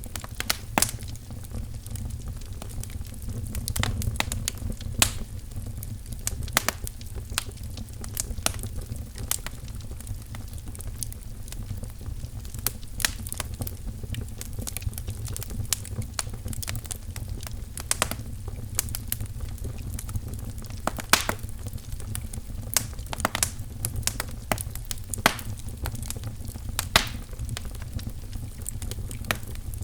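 Wood fire crackling in a fireplace: irregular sharp pops and snaps, a few louder ones, over a steady low rumble of burning logs.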